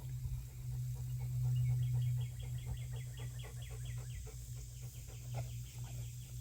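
A bird trilling, a fast run of about eight short repeated notes a second lasting a couple of seconds, over a steady low hum.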